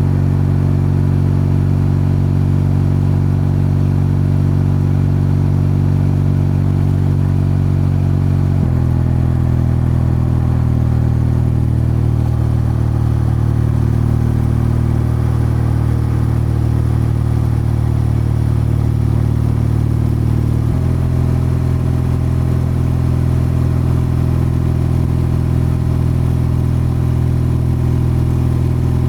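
BMW R12's boxer-twin engine and exhaust running under way at a steady engine speed, with two sudden changes in pitch, about a third and about two thirds of the way through.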